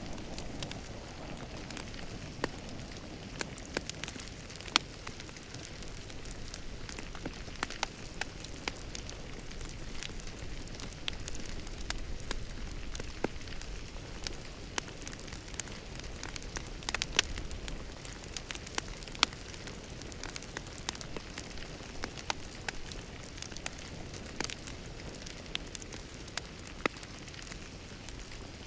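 Wood fire crackling in a fireplace: a steady hiss broken by irregular sharp pops and snaps, a few of them louder.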